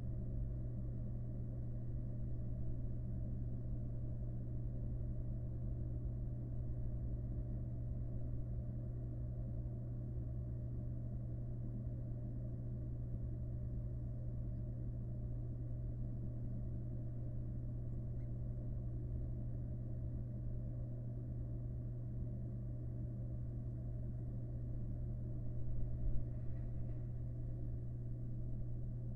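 Steady low electrical hum with a rumble under it, the background noise of a nest-box camera's microphone; one faint brief sound comes near the end.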